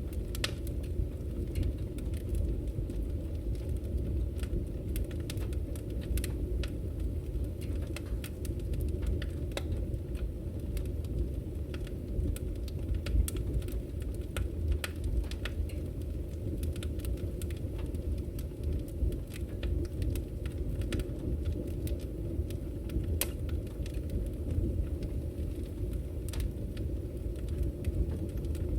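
Wood fire burning in a fireplace: firewood crackling with frequent irregular sharp pops over a steady low rumble.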